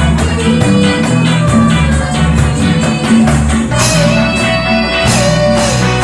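Live band music with a steady beat, pitched melody notes over a bass line.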